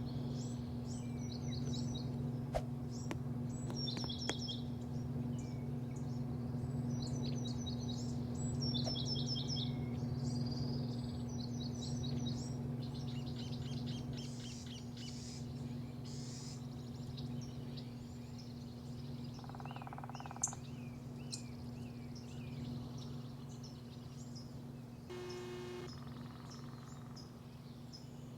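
Small birds singing outdoors: a short, fast, high trilled phrase repeated every second or two for the first half, then fainter and sparser chirps. A steady low hum runs underneath.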